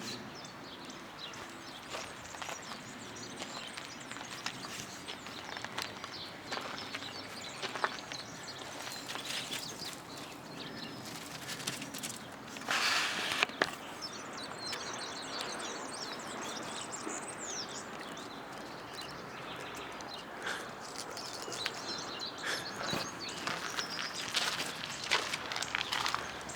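Small birds chirping and twittering in many short, high calls, over outdoor background noise with scattered light ticks and rustles. A brief, louder burst of noise comes about 13 seconds in.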